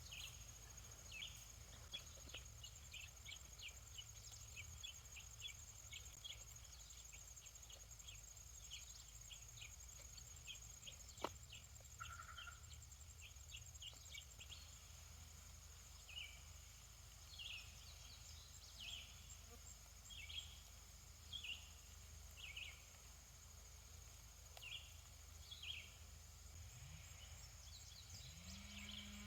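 Faint outdoor farm ambience: birds chirping in short, repeated high calls over a steady high-pitched insect drone, with a single sharp click about eleven seconds in.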